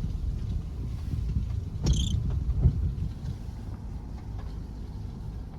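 Car creeping in first gear over a slippery, muddy dirt road, heard from inside the cabin: a low rumble of engine and tyres. A short high squeak comes about two seconds in, and a knock, the loudest moment, follows soon after as the car jolts over the rough surface.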